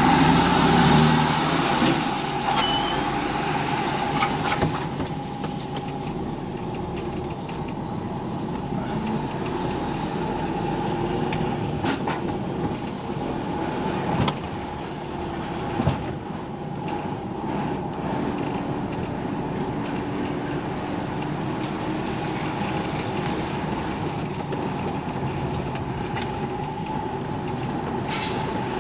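HGV lorry engine running steadily, heard from inside the cab, with a few sharp knocks partway through.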